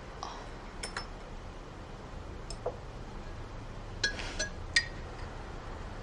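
Tableware clinking at a meal: a few separate light clinks of dishes and glass, with a small cluster about four seconds in.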